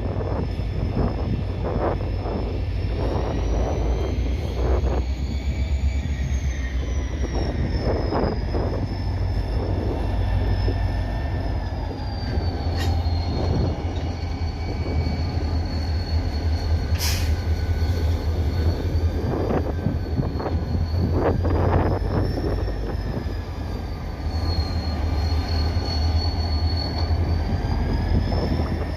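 Freight train cars rolling slowly with steel wheels squealing against the rail: a high, wavering squeal that slides up and down in pitch throughout. Under it run a heavy low rumble and repeated short knocks and clanks from the cars.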